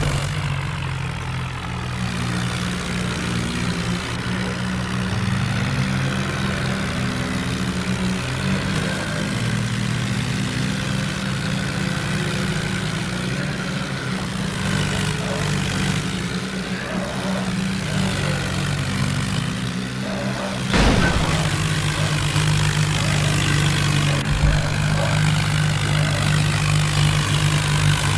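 Tractor diesel engine running with a steady low drone. About three-quarters of the way through there is a sharp knock, and the engine is louder from then on.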